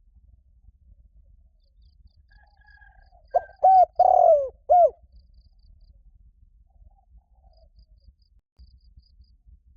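Spotted dove cooing: one phrase of four hoarse, arched coos about three seconds in, the third drawn out longer than the rest.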